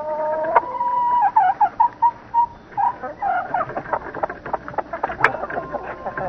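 Chickens calling: a long drawn-out call followed by a run of short, choppy clucks, with sharp clicks scattered throughout.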